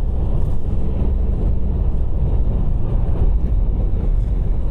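Car driving at speed: a steady low rumble of engine and road noise.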